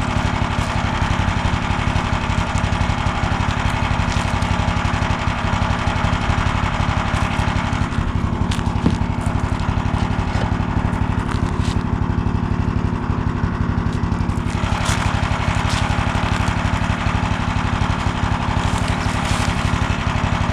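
A small engine running steadily at constant speed, with a few faint knocks over it.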